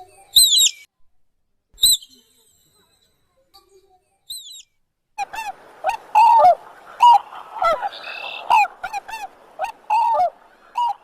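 Bird calls: a few high, falling calls in the first two seconds, then from about five seconds a rapid run of lower, repeated calls over a noisy background.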